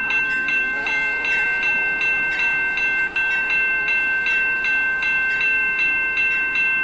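Railroad grade crossing warning bell ringing rapidly and evenly, about three strokes a second, each stroke ringing on into the next.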